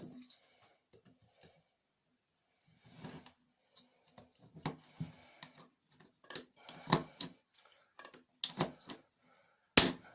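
Tools and metal parts being handled during a hand repair: scattered clicks and knocks, busier in the second half, with one sharp loud click just before the end.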